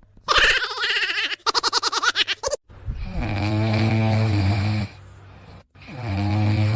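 A pet snoring loudly in two long drawn breaths, after a rapid fluttering sound near the start.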